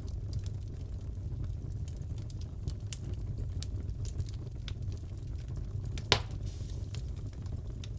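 Fireplace crackling: a steady low rumble of burning logs with scattered small pops and one loud crack about six seconds in.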